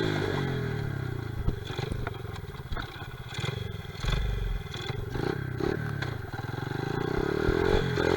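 Honda XR70R pit bike's small four-stroke single-cylinder engine running. The pitch drops off at the start, the engine stays lower with some clattering knocks, then it revs up again near the end.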